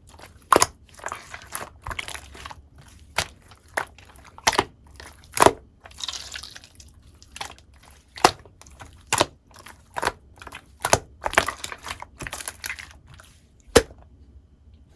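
Clear slime being squished and pressed by hand, giving irregular sharp pops with soft crackling squelches between them. The pops stop about a second before the end.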